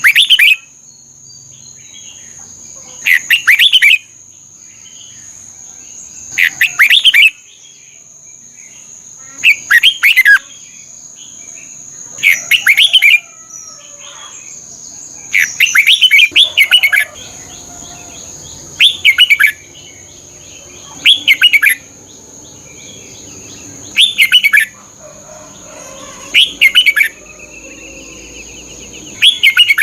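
Red-whiskered bulbul singing: short, loud whistled phrases, about eleven of them, repeated every two to three seconds. A steady high-pitched whine runs underneath.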